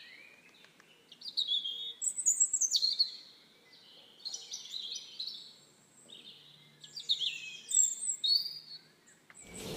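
A bird singing: two bouts of quick, high chirping notes with a quiet pause of a few seconds between them.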